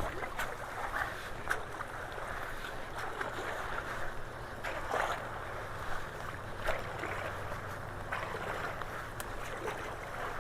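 Floodwater rushing steadily into a culvert, with a few small sharp splashes or knocks scattered through it.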